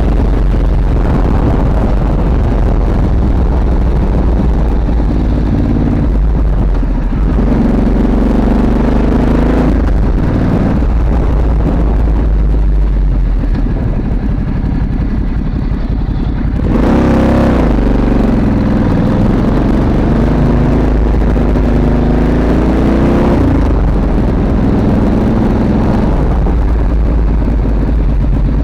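Ducati Monster S2R's air-cooled L-twin engine running while the motorcycle is ridden, its pitch climbing several times as it accelerates through the gears, over steady wind and road noise.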